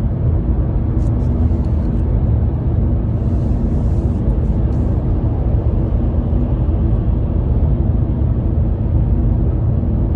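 Steady low rumbling noise with no clear pitch, like a running vehicle or wind, with a few faint ticks about one to five seconds in.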